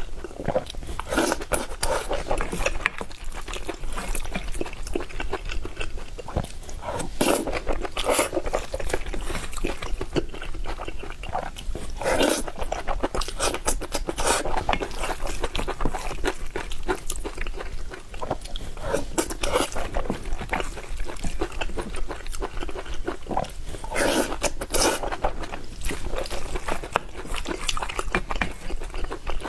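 Close-up eating sounds: a person chewing and biting spicy noodles and fried tendon, with a constant run of short wet smacks and crunchy clicks.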